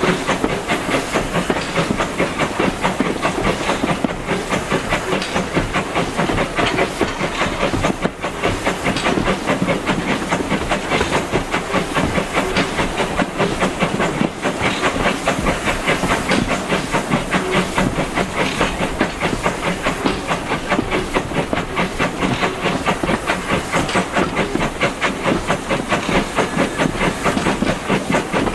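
Steam locomotive working steadily, its exhaust beating in a fast, even rhythm of about four chuffs a second over a constant hiss of steam. This is the LB&SCR A1 'Terrier' 0-6-0 tank engine 'Freshwater' hauling the train.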